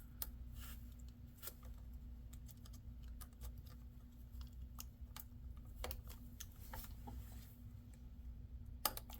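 Scattered faint clicks and taps of hands working on a laptop's parts and cables, with a sharper double click near the end, over a steady low hum.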